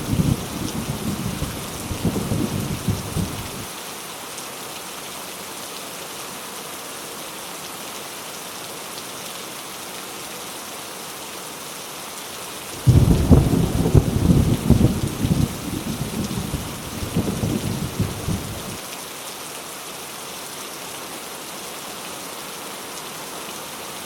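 Heavy rain, a steady hiss throughout. Thunder rumbles and fades out in the first few seconds. About halfway through a thunderclap breaks in suddenly and rolls on for about six seconds before dying away.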